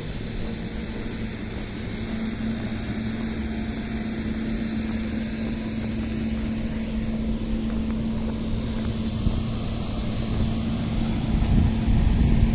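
A motor's steady drone held at one pitch, with a low rumble that grows louder near the end as it comes closer.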